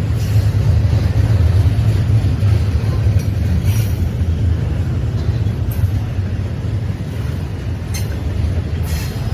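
A train rolling past: a steady low rumble with a few brief, sharp clicks.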